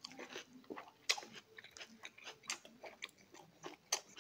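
A person chewing food, with wet lip smacks and irregular short mouth clicks.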